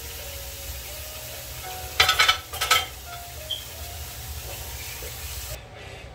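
Vegetables frying in a wok under a glass lid, a steady sizzling hiss. About two seconds in come two loud clattering knocks, and near the end the hiss cuts off abruptly.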